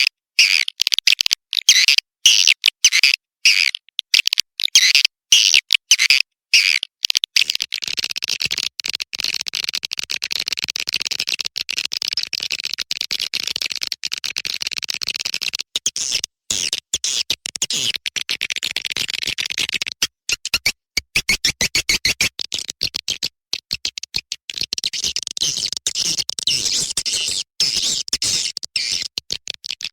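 Swiftlet call recording of the kind played to lure swiftlets into a nesting house: rapid high twittering chirps, chopped into quick stuttering bursts for the first several seconds, then a dense, nearly continuous chatter.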